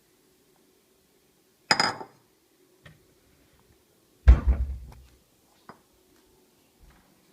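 Household knocks and clatter: a short rattling clatter with a brief ring about two seconds in, then a loud heavy thump with a low boom a couple of seconds later, and a few light clicks.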